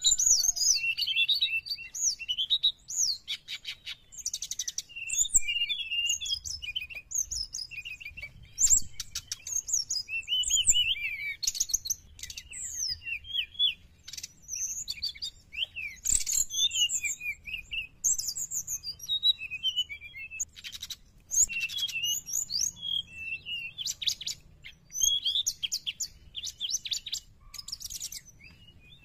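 Brown-chested jungle flycatcher (sikatan rimba dada coklat) singing without pause: a varied run of high whistled phrases mixed with fast, rattling trills.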